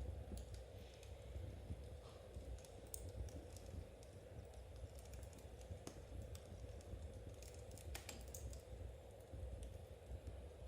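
Faint, irregular small clicks and crackles over a steady low rumble, typical of knitting needles working yarn beside a crackling wood fire.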